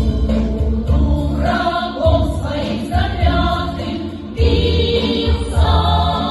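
Russian folk-song ensemble singing in chorus over an instrumental accompaniment with a strong, pulsing low bass.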